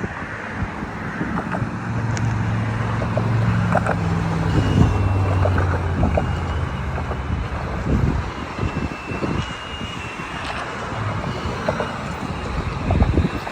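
Diesel freight train rolling through a rail yard. A locomotive's engine drones steadily for the first several seconds, then fades, while car wheels click over rail joints, with a faint high wheel squeal coming and going. Wind buffets the microphone.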